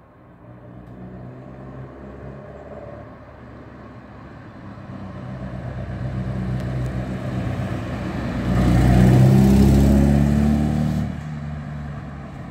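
1970 Alfa Romeo Giulia Super's twin-cam four-cylinder engine running at a steady pace as the car comes up the street. The note grows louder, is loudest for a couple of seconds from about eight and a half seconds in as the car passes close, then fades as it moves away.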